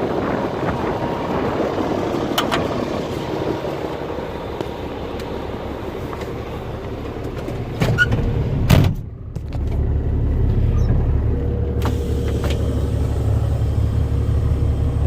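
A truck cab door bangs shut, then an old farm truck's engine starts and settles into a steady low idle rumble. The truck has been sitting in the cold long enough to freeze to the ground.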